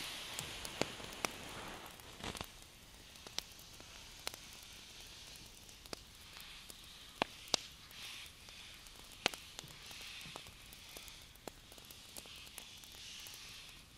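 Hand moving close to the microphone: soft swishing swells of rubbing skin and air, with scattered light clicks and crackles throughout.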